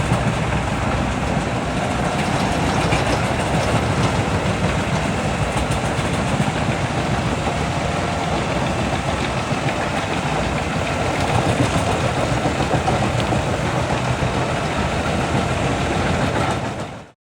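Large wood chipper of about 800 horsepower running under load, feeding and chipping branches in a loud, steady mechanical din. It stops suddenly near the end.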